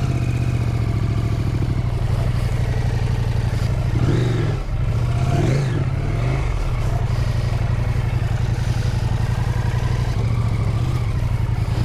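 Husqvarna Norden 901's parallel-twin engine running at low revs through a deep, rocky water crossing, with the revs rising and falling a few times about four to seven seconds in.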